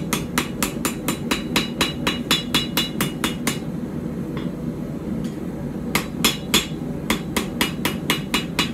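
Blacksmith's hammer striking a hot steel knife blade on an anvil to straighten it, in quick even blows about four a second, each with a short ring. The hammering stops for about two seconds midway, then starts again.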